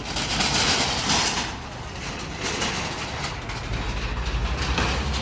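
A motor vehicle running amid rushing outdoor noise, with a steady low rumble setting in near the end.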